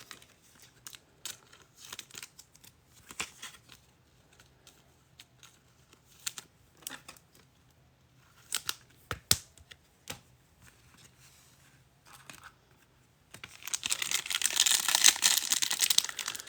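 Trading cards being handled, with scattered light clicks and taps, then, from about 13 seconds in, a card pack wrapper tearing open with continuous crinkling.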